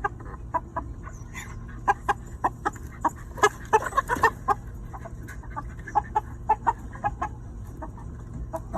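Chicken clucking: a long series of short, sharp clucks, some in quick runs.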